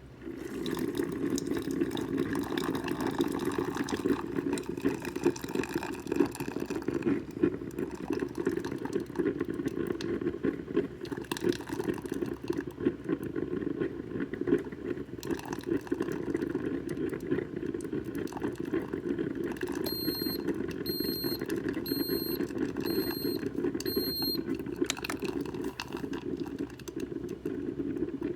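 Drip coffee maker brewing: a steady liquid gurgling and spattering, with five short electronic beeps about a second apart near the end.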